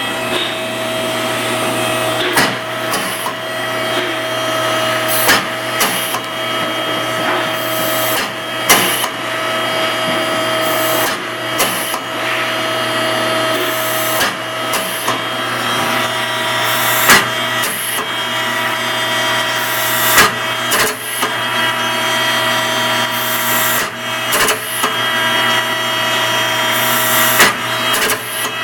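A machine running steadily with a whine made of several steady tones, broken by irregular clicks and knocks every second or so: a noise the owner still finds abnormal.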